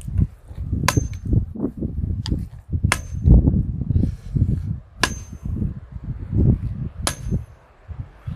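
A 6-pound sledgehammer striking a metal well pipe to drive it into the ground: about six ringing metal clangs, one to two seconds apart. Wind buffets the microphone with a heavy low rumble throughout.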